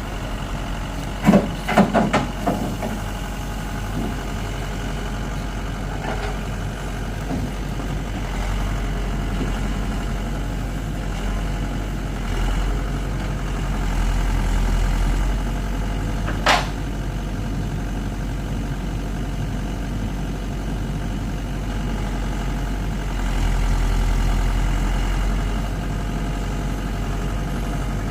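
Heavy diesel engine running steadily, with a quick cluster of sharp knocks about a second in and one more sharp knock about halfway through.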